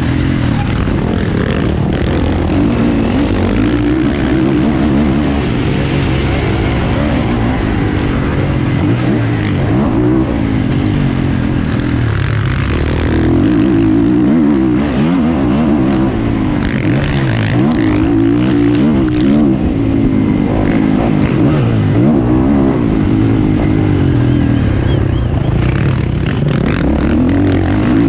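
A 450cc motocross bike's engine, revving up and down repeatedly as it is ridden hard around the track, its pitch rising and falling every second or two.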